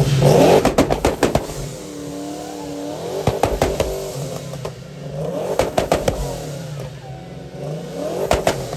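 Supercharged Fox-body Mustang engine being revved hard through a loud exhaust in repeated bursts about every two to three seconds, each rising and falling. Sharp pops and crackles come from the exhaust between the revs.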